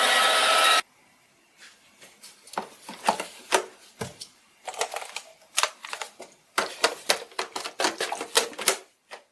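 A loud steady noise cuts off under a second in. Then comes an irregular run of sharp clicks and taps of small hard objects, some in quick clusters, which stops shortly before the end.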